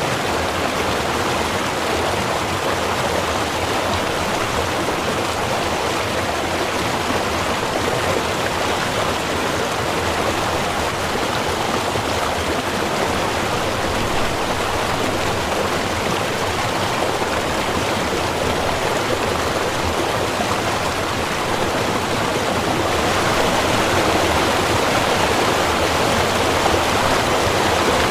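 Small river running steadily, an even rush of water that gets slightly louder for the last five seconds.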